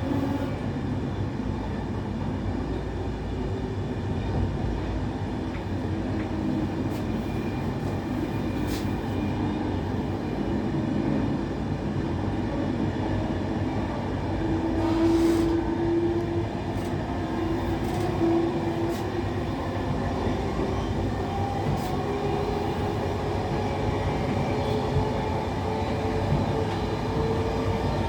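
Passenger train running, heard on board: a steady rumble of wheels and track with a few faint clicks. From about halfway a motor whine sets in and slowly rises in pitch as the train gathers speed.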